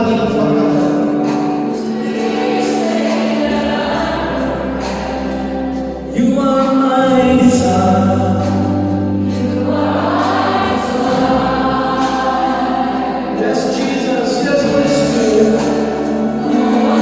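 Christian choral music: a choir singing over long held bass notes that change every few seconds.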